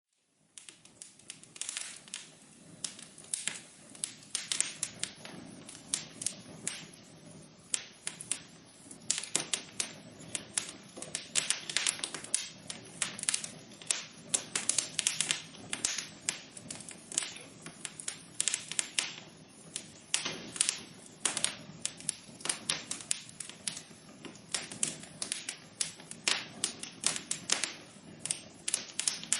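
Fire burning in a fireplace, crackling with a dense run of irregular sharp pops and snaps over a low steady hiss.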